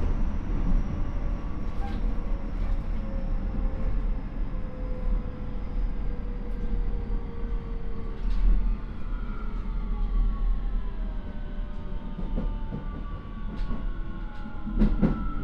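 Keio 9000 series electric train running, heard inside the car: the Hitachi IGBT inverter and traction motors whine in several thin tones that fall slowly in pitch as the train slows, over steady wheel and rail rumble. A few sharp clicks sound near the end.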